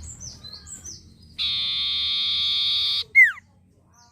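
A sirtu singing: a quick run of short, high, falling chirps, then a loud, even, buzzy trill held about a second and a half, ending in a single sharp whistle that slides steeply downward.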